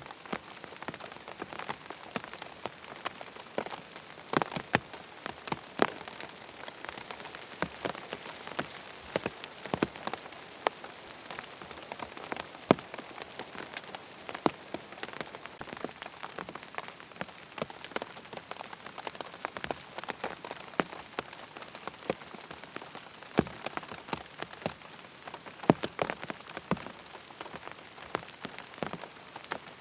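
Steady rain falling on a hard surface, an even hiss dotted with frequent sharp ticks of single drops, a few of them louder than the rest.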